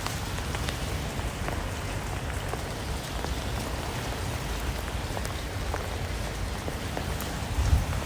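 Steady rain falling, with individual drops ticking here and there.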